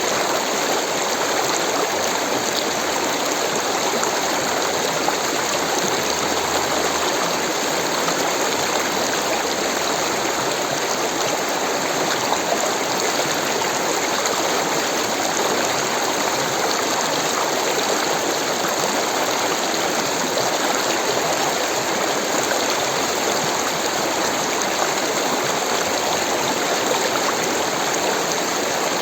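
Rushing water, a stream running steadily with no change in level.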